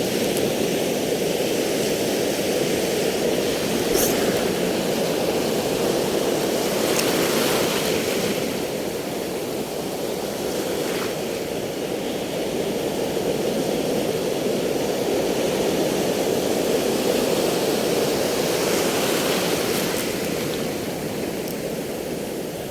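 Steady rushing noise, with a few faint clicks.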